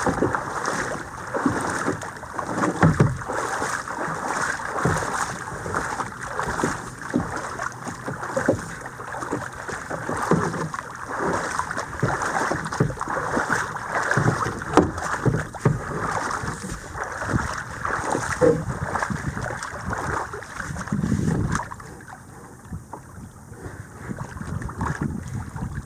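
Kayak being paddled on a small creek: water splashing around the paddle and hull, with irregular knocks, quieter for a few seconds near the end.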